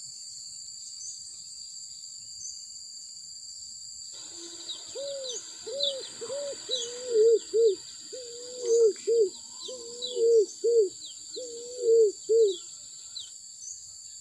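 A bird gives low cooing calls in four phrases of several notes each, the loudest sound here. Thin, quick chirps of small birds and a steady, high-pitched insect drone run underneath.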